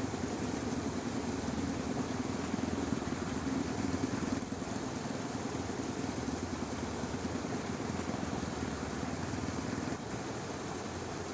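Dense chorus of frogs croaking continuously, a low, rapidly pulsing drone that gets slightly quieter about ten seconds in.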